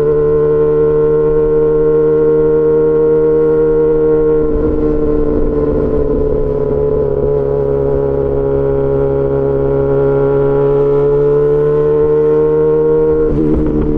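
Yamaha XJ6 S inline-four through an SC-Project aftermarket exhaust, pulling at a steady road speed. The engine note holds nearly level, sags slightly mid-way, climbs back, and breaks off briefly near the end.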